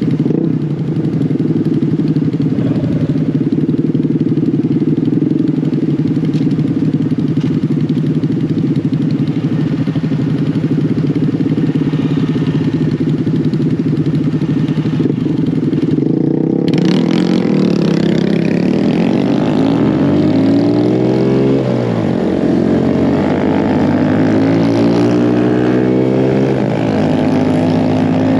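Small mini bike engines running, a steady hum for the first half. About halfway through, several engines start revving, their pitches rising and falling over one another.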